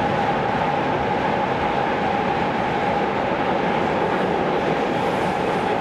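Tokyo Metro Series 16000 subway train running at steady speed, heard from inside the passenger car: a constant rumble of wheels on rail with a steady, unchanging hum above it.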